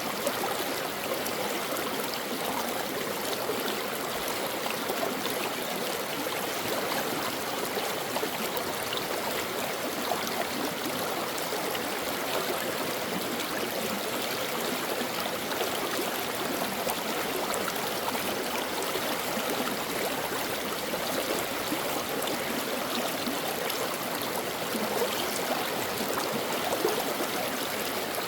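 Shallow stream running over rocks: a steady rush of flowing water with small splashes and gurgles.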